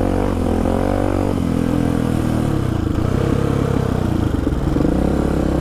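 Polaris Predator sport quad's single-cylinder four-stroke engine running under a rider on a trail. The engine note dips and rises with the throttle over the first second or so, then holds fairly steady.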